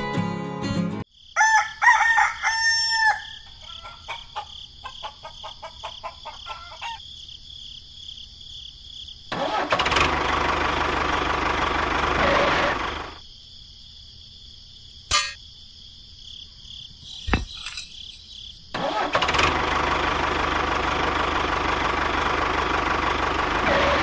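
A rooster crows about a second in, followed by scattered clucking. Later an engine runs steadily in two stretches of several seconds, one near the middle and one toward the end, with a couple of sharp clicks between them.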